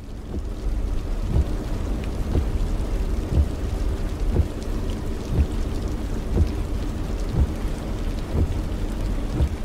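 Heavy rain on a car's windshield, heard from inside the car over a steady low rumble, with a thump about once a second as the wipers sweep.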